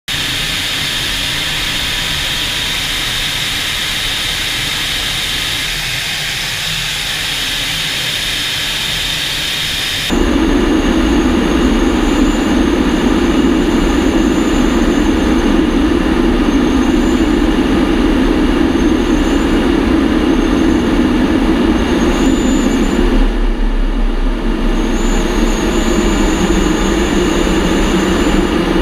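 Steady jet engine noise of Tu-22M3 bombers' turbofans in three sections joined by hard cuts. The first is a higher, hissing noise; about ten seconds in it jumps to a louder, deeper drone, which changes again a little after twenty seconds.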